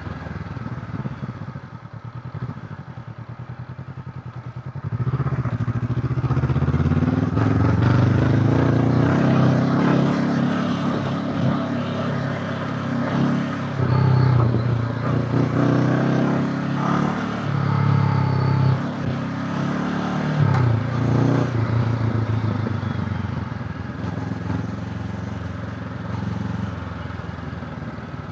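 Honda CB500X's parallel-twin engine running, with an even rapid pulse at low revs for the first few seconds, then louder from about five seconds in as the throttle opens, the revs rising and falling several times.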